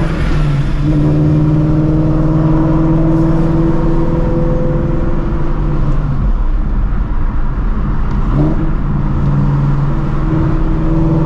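Straight-piped 2016 Shelby GT350's 5.2-litre flat-plane-crank V8 with long-tube headers, running at a steady cruise with a steady pitch. The exhaust note drops back for a few seconds past the middle, then comes back near the end.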